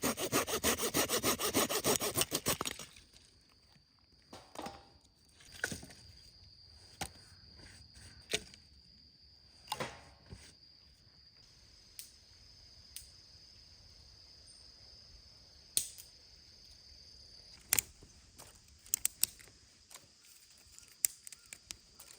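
Folding hand saw cutting through firewood with quick, even strokes, stopping about three seconds in. After that come scattered light knocks and clicks of wood being handled.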